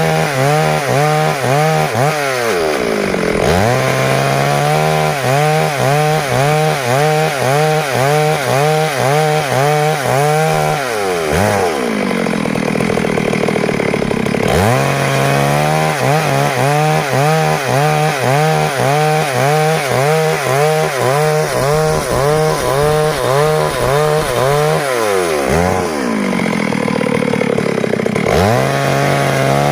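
Stihl MS 382 two-stroke chainsaw at high revs, cutting wood with its pitch wavering under load. Three times it drops off throttle and then revs back up into the cut: about three seconds in, around twelve seconds, and again near twenty-five seconds.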